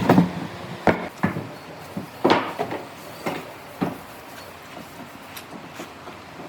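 Pieces of wood being handled and knocked together: about six separate wooden knocks and clunks in the first four seconds, then only faint taps.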